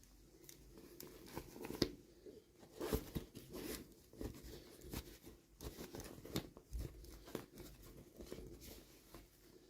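Soft, irregular crinkling, rustling and small clicks of toy packaging being handled and torn open by hand.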